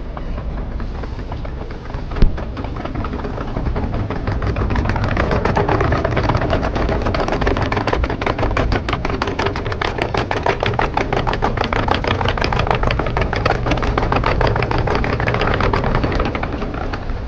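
A motor vehicle engine running close by with a rapid, even beat. It grows louder about four seconds in and eases off near the end. A single sharp click comes about two seconds in.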